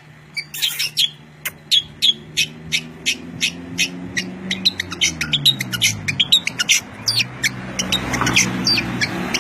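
Songbirds chirping rapidly and without pause, short sharp high notes several times a second. Under them runs a low hum that sinks in pitch about halfway through and then climbs back.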